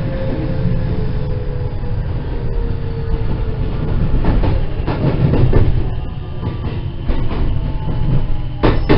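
Onboard running sound of a JR West 207 series 2000-subseries electric train with an IGBT VVVF inverter: steady low rumble with the traction motor whine sliding slowly down in pitch over the first few seconds. Wheels click over rail joints through the second half, with a sharp knock near the end.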